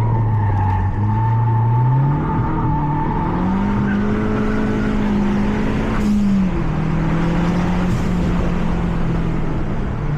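Mazda 3 MPS's 2.3-litre turbocharged four-cylinder engine heard from inside the cabin at track pace: the revs climb from low over about two seconds and hold, then drop sharply with a gear change about six seconds in, after which the engine pulls on steadily.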